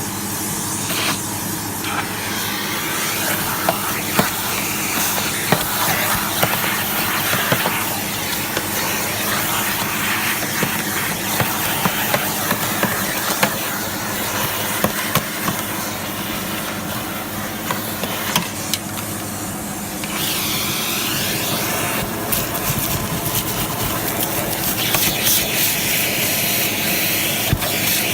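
Sebo X1 upright vacuum cleaner running steadily, its motor hum under a constant rushing hiss of suction, with scattered sharp ticks of grit and dust being sucked up as it cleans another vacuum. The hiss changes in tone about two-thirds of the way through as the nozzle is moved.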